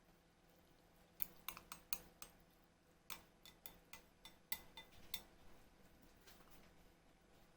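Faint kitchen utensils clinking against dishes: about a dozen short, sharp clinks, irregularly spaced, between about one and five seconds in, over a low steady room hum.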